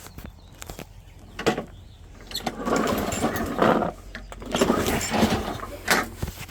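Toro lawnmower's small engine being pull-started twice on the recoil cord, each pull a rough whirr of about a second as the engine turns over without catching, with a few knocks of handling between.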